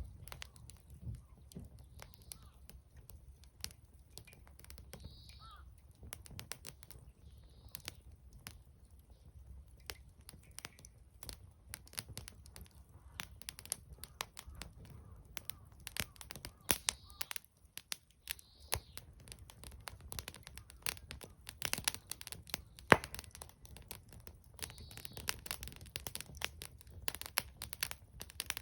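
Wood fire crackling and popping, with many irregular sharp snaps and a few louder pops.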